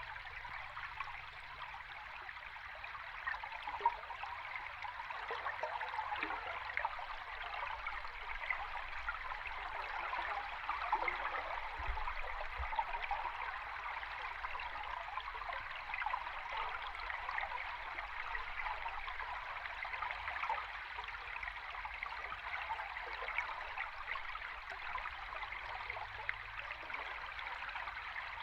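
A river stream recorded underwater: a steady, dense rush of fine bubbling and crackling water, with little deep rumble.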